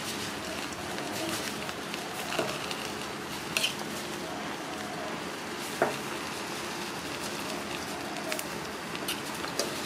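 Omelette batter sizzling steadily in a hot pan, with several sharp metallic clinks of a ladle against the pot and pan as filling is scooped out, the loudest about six seconds in.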